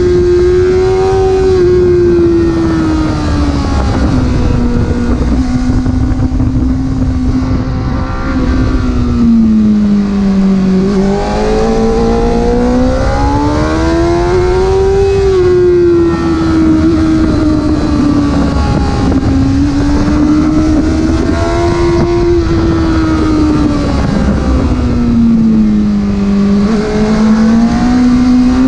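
Porsche engine running under way, its note rising and falling repeatedly as the revs change, over a steady rumble of road noise.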